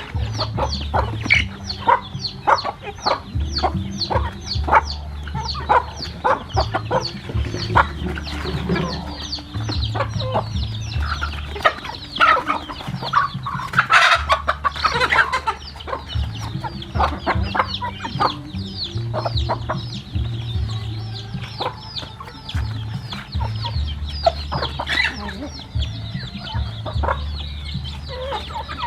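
A flock of chickens clucking, with a constant run of short, high-pitched, falling calls and a louder burst of calling about fourteen seconds in. A low rumble comes and goes underneath.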